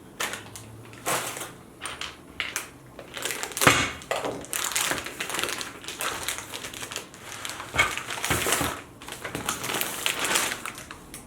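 Packaging and parts being handled: irregular crinkling and rustling with a few sharp clicks and knocks.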